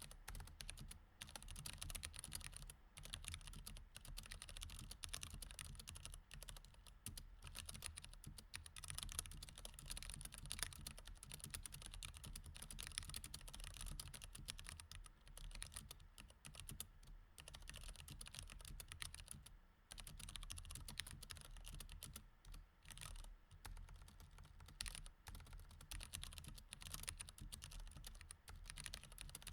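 Mechanical keyboard with Cherry MX Red switches typed on steadily: a dense, quiet stream of key clicks and bottom-outs, with a brief pause about two-thirds of the way in.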